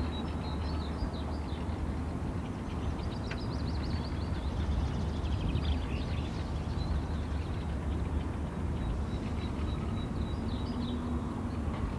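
Wild birds chirping in short high phrases, with a quick run of repeated high notes in the middle, over a steady low rumble.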